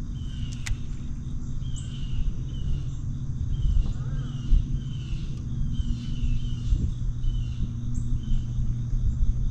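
Lakeside morning ambience: a steady low rumble and hum, with a bird repeating short falling chirps about twice a second.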